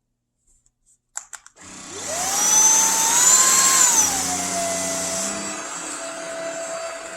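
ORFELD B08 cordless stick vacuum switched on with a few clicks just over a second in. Its motor spins up with a rising whine, dips to a lower pitch about four seconds in, and then runs steadily.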